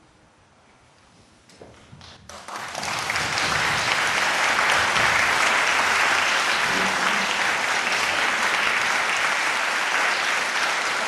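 A quiet pause, then an audience breaks into applause about two seconds in, and the clapping carries on steadily.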